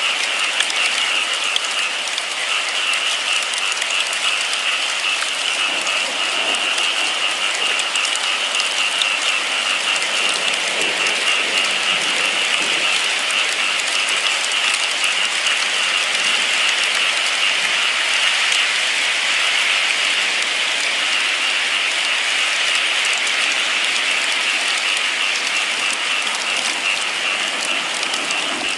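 Steady rain falling: a dense, even hiss flecked with many small drop ticks.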